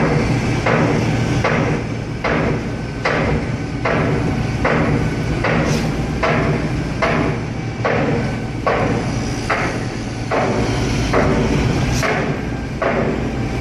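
Truck-mounted concrete boom pump working: a steady, even knock with each pump stroke, about one every 0.8 seconds, over the steady drone of the truck's diesel engine.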